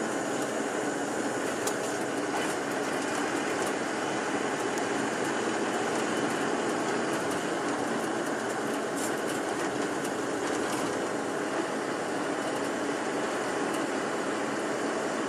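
Steady engine and road noise inside a moving tour bus, with a few faint clicks and rattles.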